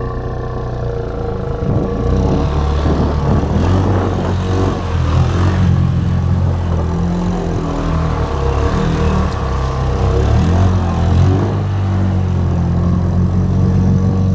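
Honda Rubicon ATV engine running under varying throttle while riding, picking up about two seconds in and rising and falling with the throttle.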